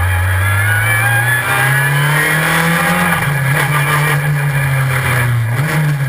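Super FJ formula car's engine pulling hard under acceleration: its pitch climbs, drops sharply about three seconds in as the dog-ring gearbox shifts up, then climbs again, with a brief change in revs near the end.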